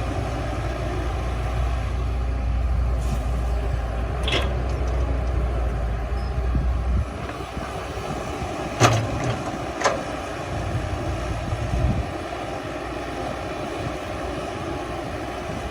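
Heavy diesel earthmoving machinery running steadily, with a deep low rumble that drops away about seven seconds in. A few sharp metallic clanks cut through, the loudest about nine seconds in.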